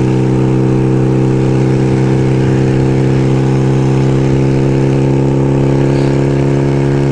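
1975 Kawasaki KZ400S parallel-twin engine running under way at steady revs, with wind rumble on the microphone.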